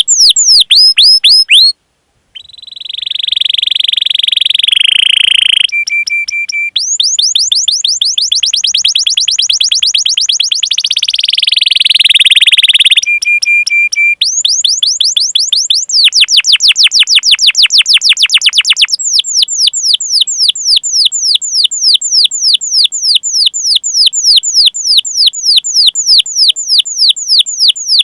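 Domestic canary singing: long runs of quick, high, down-sweeping 'cuit cuit' chirps, several a second, broken by rapid rolling trills and a couple of short steady whistled notes. A brief drop-out comes about two seconds in.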